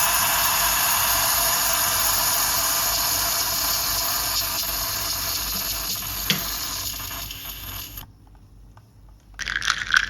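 Bialetti New Brikka 4-cup moka pot hissing and sputtering as brewed coffee is forced up through its pressure valve, slowly fading, with a single click about six seconds in. The hiss stops abruptly about eight seconds in, and another hissing, liquid sound starts shortly before the end.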